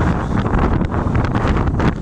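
Blizzard wind blasting across the microphone: a loud, steady rush with constant buffeting and crackle.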